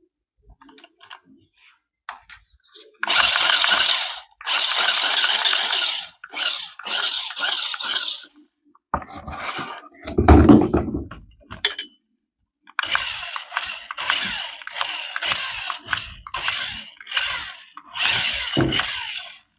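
Hard plastic rattling and clinking as a toy or its packaging is handled, in bursts of a second or two, with a heavier knock about ten seconds in.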